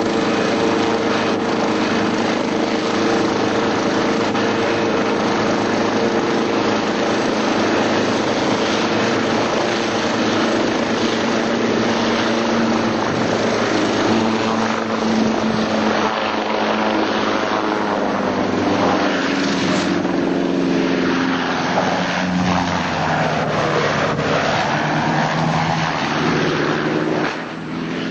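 Helicopter's engine and rotor blades running with a fast, steady chop; the engine pitch shifts up and down in the second half.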